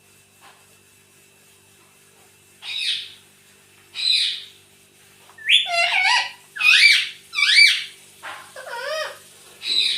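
Rose-ringed (ring-necked) parakeet calling: after a quiet start, a run of about seven shrill, pitch-sweeping calls begins about three seconds in and comes faster toward the end.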